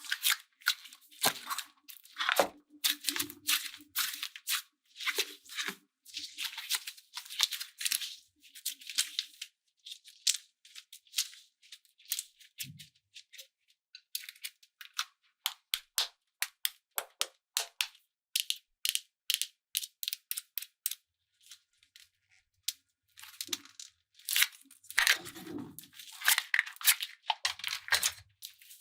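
Slime and clay being handled up close: dense, irregular crackling and clicking in clusters, with a couple of sparser pauses.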